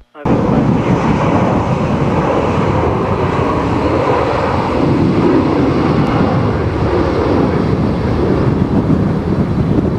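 Strong typhoon wind buffeting the microphone: a loud, steady rush of wind noise that cuts in abruptly at the start.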